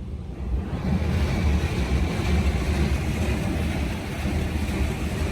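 Automatic truck wash spraying water over a truck: a steady rushing hiss that swells about half a second in, over the low rumble of the truck's engine.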